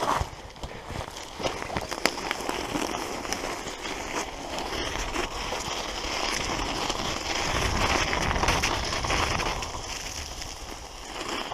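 Road-bike tyres rolling over a snowy forest track, giving a steady crackling and crunching, with wind noise on the microphone. It grows louder for a few seconds past the middle.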